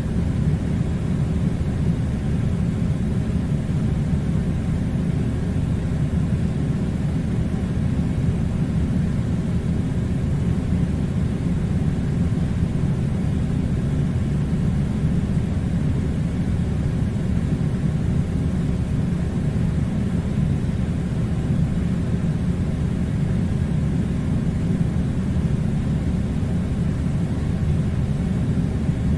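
Steady low rumbling noise that holds level and unchanging, with no distinct events.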